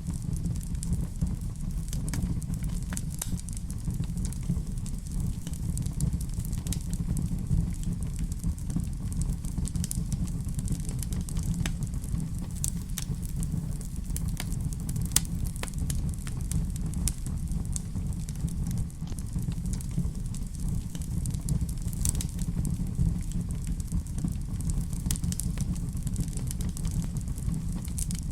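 Wood fire crackling in a fireplace: a steady low rumble of the flames with frequent sharp pops and snaps scattered irregularly throughout.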